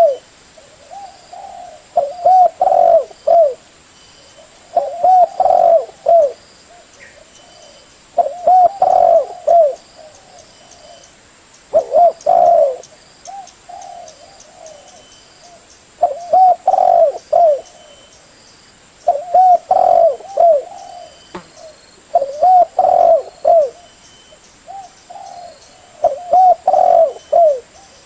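Spotted dove cooing: a phrase of several low, curving coos repeated about every three and a half seconds.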